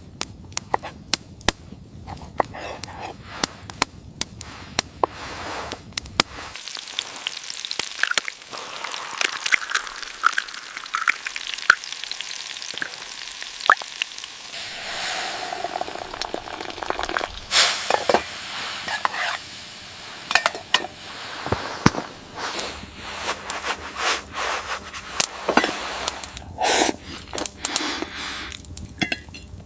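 Food frying in a pan: a steady sizzle with many irregular crackles and pops.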